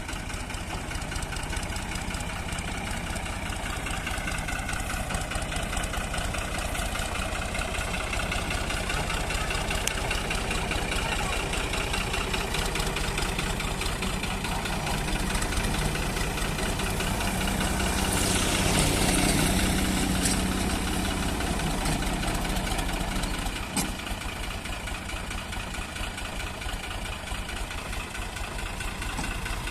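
Tractor engine running steadily, with a louder rush of noise about eighteen seconds in and a sharp click a few seconds later.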